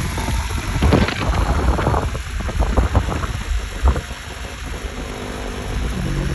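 Running noise of a moving motor vehicle, a steady low rumble, with wind buffeting the microphone and irregular knocks.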